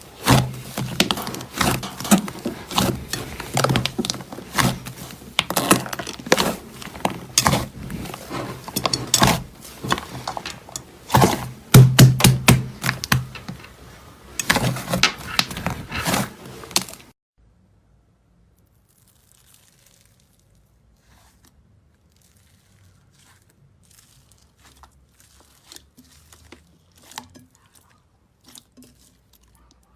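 Slime being handled and squeezed, giving dense crackling and popping clicks. About seventeen seconds in it cuts off suddenly, leaving only faint, sparse ticks.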